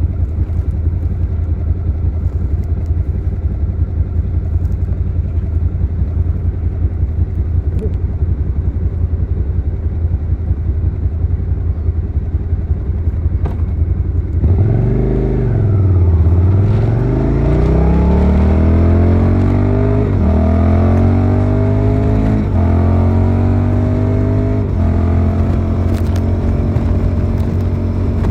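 Suzuki SV650 V-twin engine idling with an uneven pulsing beat, then pulling away about halfway through: the revs dip and climb, and the pitch rises and drops back several times as it shifts up through the gears.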